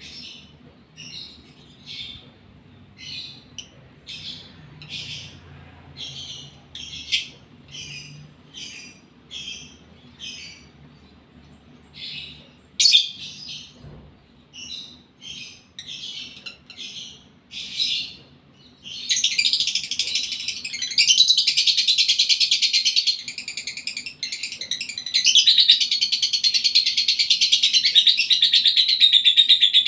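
Lovebird in breeding condition calling: short sharp chirps about twice a second, then, about two-thirds of the way in, a long unbroken rapid chatter that pauses once briefly and starts again.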